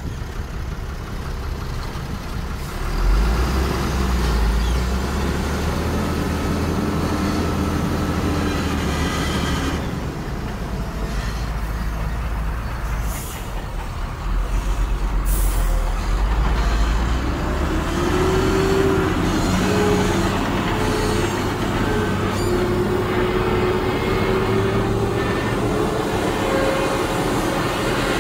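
Diesel engines of heavy earthmoving machinery running and revving under load, the pitch rising and falling. Around the middle come two short air hisses.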